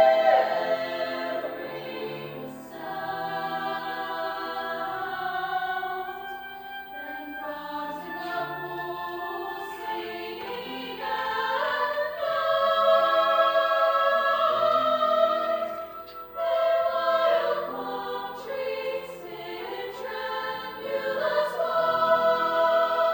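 High school choir singing sustained chords in several vocal parts, phrase by phrase. The sound drops away briefly about sixteen seconds in, then the voices come back in together.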